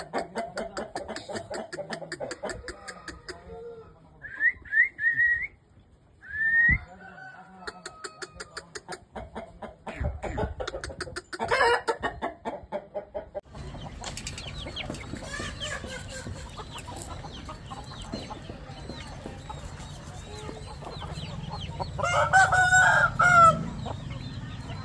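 Aseel chickens clucking in quick repeated calls, with a few short rising calls, and a rooster crowing loudly near the end.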